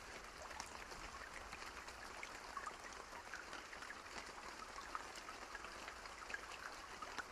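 Soft steady rain, a continuous hiss with many small irregular ticks and pops, mixed with the crackle of a campfire.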